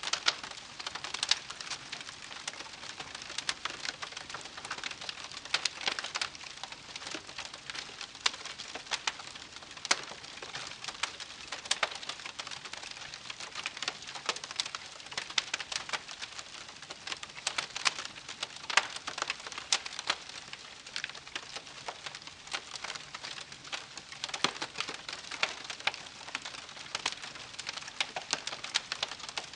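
Wood campfire crackling: a dense, irregular run of small sharp pops and snaps over a soft hiss.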